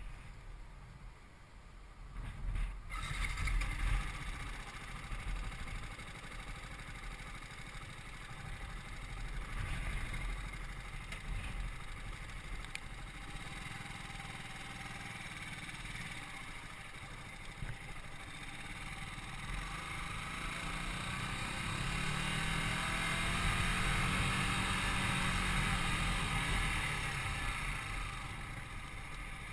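Yamaha YZF-R125's single-cylinder engine running under way, mixed with wind and road noise. The sound picks up about three seconds in, and the engine note rises and falls again about two-thirds of the way through, where it is loudest.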